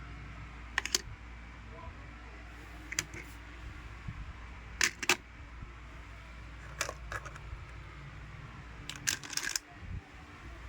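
Toys being handled: short sharp clicks and clatters in small clusters about every two seconds, over a low steady hum.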